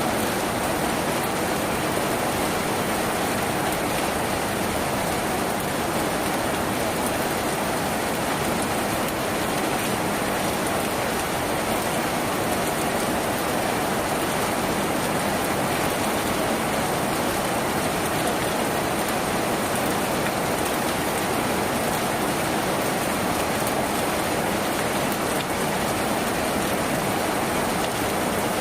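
Steady rain falling on a tin roof, an even, unbroken hiss of drops with no let-up.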